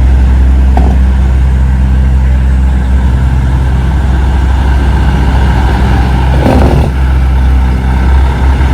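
Heavy diesel truck engines running steadily in a loud, low hum, with a short burst of noise about six and a half seconds in.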